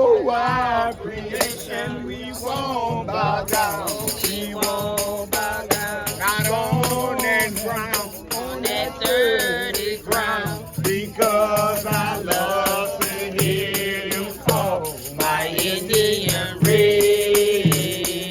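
Voices singing or chanting over tambourines and shakers that keep a steady beat.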